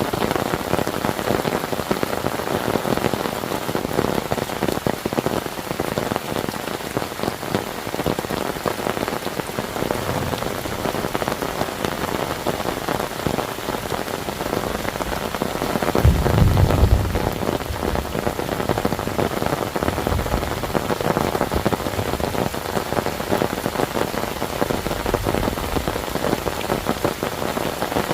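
Heavy rain falling steadily, countless drops pattering on a surface. About halfway through, a brief low rumble rises under the rain.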